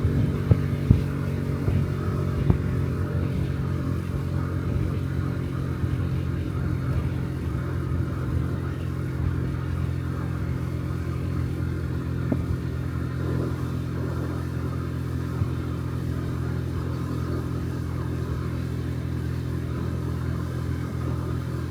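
Honda Dio Cesta 50cc four-stroke single-cylinder scooter engine running steadily while riding, with a few light knocks in the first few seconds.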